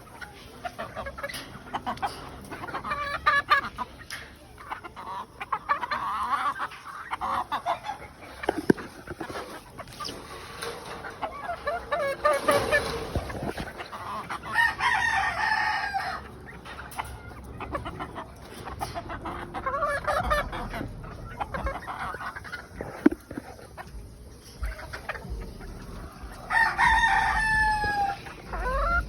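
A flock of penned fowl clucking and calling over one another, with longer crowing calls about halfway through and again near the end.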